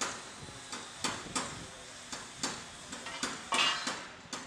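Building-site clatter: irregular sharp clinks and knocks over a low hiss, with a short rushing burst about three and a half seconds in.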